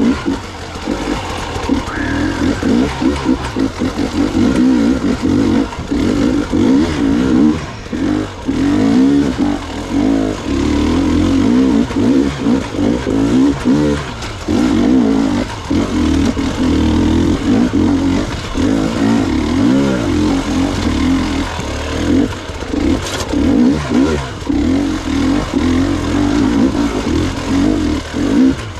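Gas Gas EX 300 two-stroke single-cylinder enduro motorcycle engine under way, its pitch rising and falling as the throttle is worked, with short dips every few seconds where the throttle is closed.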